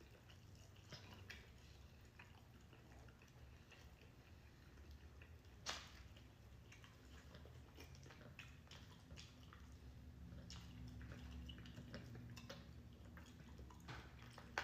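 Faint, scattered wet clicks and smacks of someone chewing food, with one sharper click a little over halfway through.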